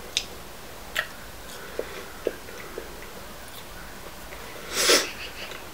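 Close-up chewing of French fries, with small sharp mouth clicks every second or so, and one short loud breath about five seconds in.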